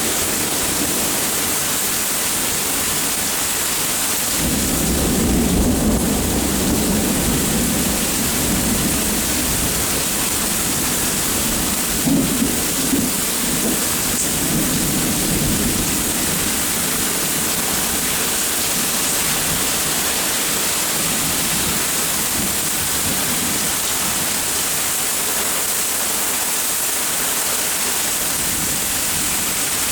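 Steady rain falling, with thunder rumbling twice: one long rumble starting about four seconds in and another around twelve seconds in, fading out after about sixteen seconds, leaving only the rain.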